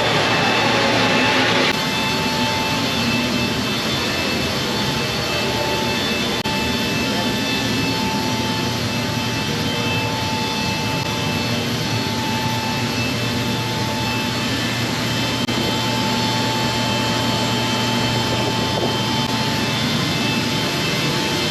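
C-17 Globemaster III's Pratt & Whitney F117 turbofan engines running steadily, a dense jet rush with a high, steady whine. The sound drops abruptly a little under two seconds in, then holds steady.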